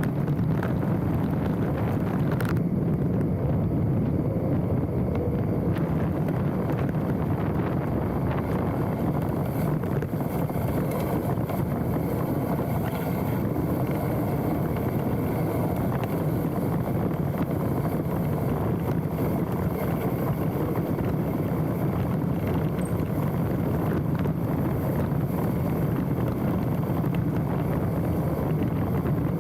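Specialized Stumpjumper mountain bike running down a dirt trail: steady wind rush over a handlebar-mounted microphone mixed with tyre and trail noise, and one sharp knock about two and a half seconds in.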